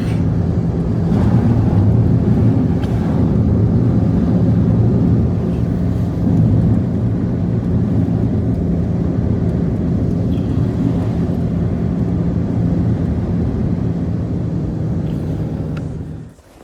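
A loud, steady, low motor drone that starts suddenly and cuts off near the end.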